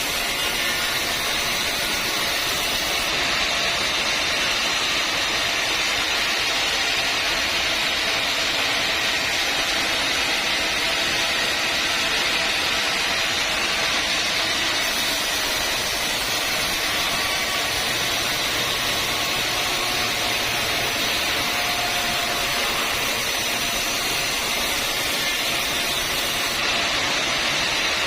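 Sawmill saw running steadily, cutting timber with a constant, even noise that stays level throughout.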